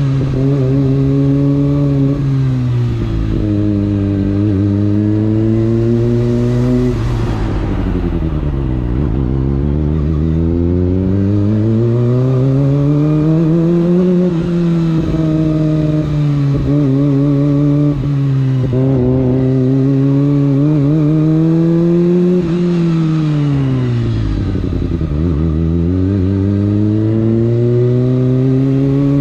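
Kawasaki ZX25R's 250 cc inline-four engine under way, its pitch climbing and falling repeatedly through acceleration and easing off. It drops to a low pitch about a third of the way in and again near the end before climbing again.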